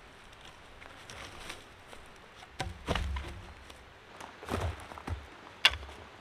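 Footsteps and rustling on the forest floor, uneven, with a few heavier thuds around the middle and a sharp click near the end.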